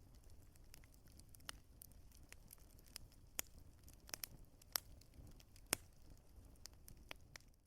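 Wood fire crackling: irregular sharp pops and snaps scattered over a soft low rumble, the loudest pop a little under six seconds in.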